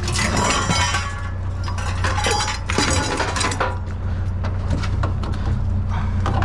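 Scrap items clattering and clinking as they are shifted and wedged into place on a loaded truck, busiest in the first few seconds and then fewer, lighter knocks, over a steady low hum.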